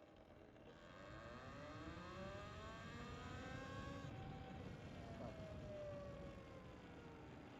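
Siren wailing, climbing slowly in pitch for about three seconds and then sliding back down.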